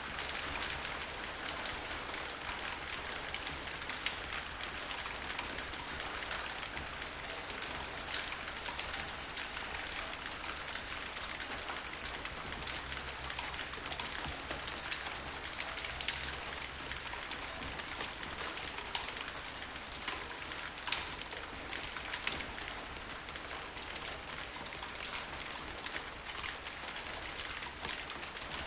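Steady rain falling, with many individual drops ticking sharply close by over an even wash of rainfall.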